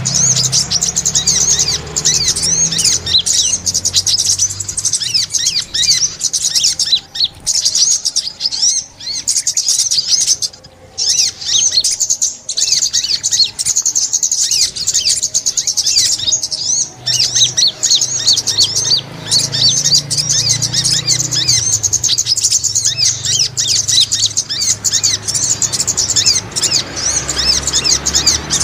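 Brown-throated sunbirds (sogok ontong) chirping and twittering in rapid, high-pitched strings that run on almost without a break, pausing briefly about ten seconds in.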